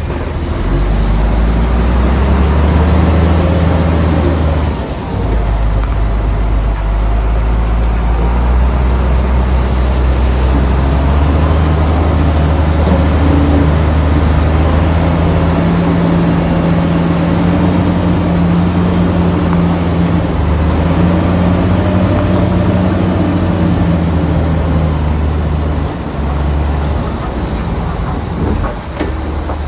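Heavy diesel engine of earthmoving machinery running hard under load, its low note rising and falling as the load changes, with brief dips about five seconds in and again near the end.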